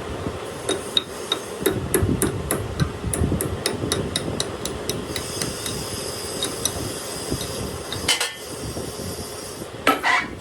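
Hand hammer striking metal in a quick, steady series of sharp ringing blows, about two to three a second, followed by two heavier knocks near the end.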